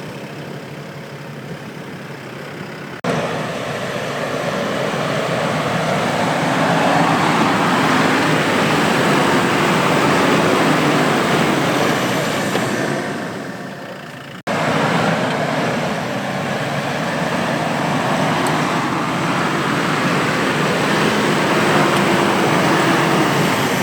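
Diesel 4x4 SUV driven hard through a soft off-road trail, the engine under load under a steady rushing noise. The sound breaks off abruptly about three seconds in and again about halfway through.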